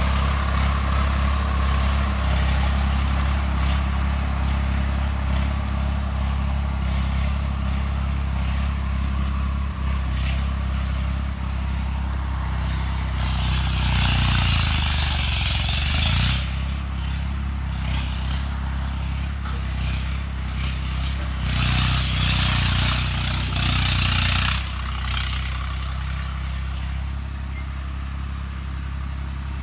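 Swaraj 855 FE tractor's three-cylinder diesel engine running steadily. Two spells of louder, harsher noise come about halfway through and again a few seconds later. During the first, the engine's pitch dips and rises again.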